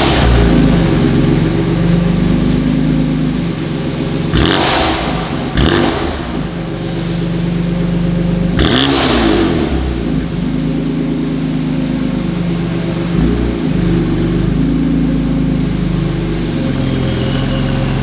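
BMW M4 F82's twin-turbo straight-six running through a Milltek exhaust system, with its pitch stepping up and down. Three short, sharp bursts come through about four and a half, six and nine seconds in.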